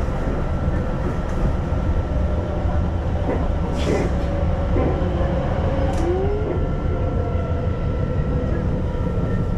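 Keihan local train running between stations, heard from inside the carriage: a steady low rumble with a thin steady high hum, and two brief sharp clicks about four and six seconds in.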